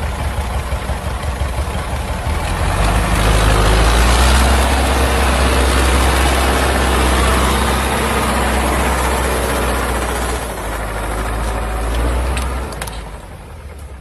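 Old tractor's engine running steadily with an even low pulse; it gets louder about three seconds in, holds, and drops back near the end.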